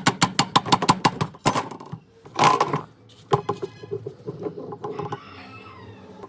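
Rapid, even clicking, about eight clicks a second, for the first second and a half, then a short hiss and a few scattered clicks and knocks, typical of hand-tool work on a generator.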